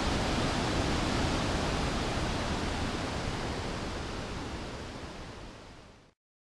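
Waterfall: a steady rush of falling water, fading out over the last two seconds and cutting to silence.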